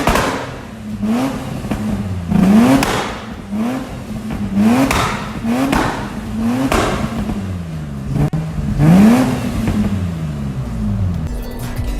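Nissan Patrol Super Safari's 4.8-litre straight-six through a straight-piped exhaust, revved in a string of about eight quick throttle blips, each climbing and falling back, with a longer, higher rev near the end.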